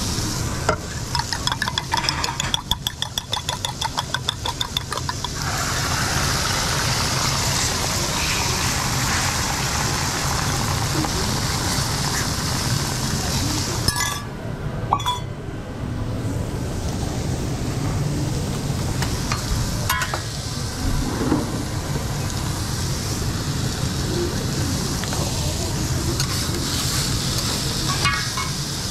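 An omelette cooking on a hot griddle: rapid rhythmic clicking of a utensil for the first five seconds or so, then steady sizzling with a few scattered knocks and scrapes, over a constant low hum.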